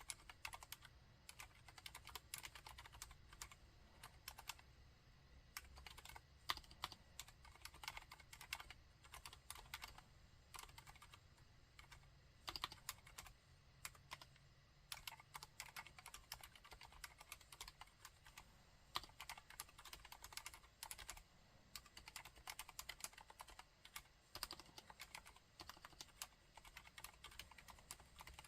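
Typing on a Mistel MD600 Alpha split keyboard with Cherry MX Silent Red linear switches. The keystrokes are quiet and damped, coming in quick runs broken by short pauses.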